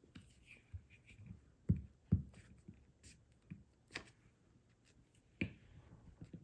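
Paper craft pieces being handled and glued onto a card: light rustles and ticks, with two sharp knocks on the table close together about two seconds in and another near the end.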